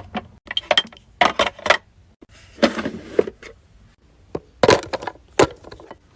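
Small glass and plastic skincare bottles and jars clinking and clicking as they are picked up and set down one after another, with a short rustle about three seconds in.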